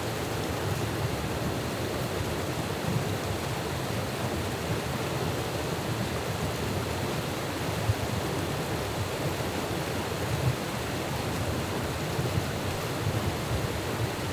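Steady rushing of flowing stream water, with a few faint short knocks.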